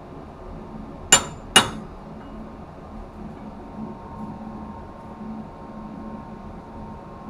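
Two sharp metallic clanks about half a second apart, each with a brief ringing tone, as metal strikes metal, over a steady background machinery hum.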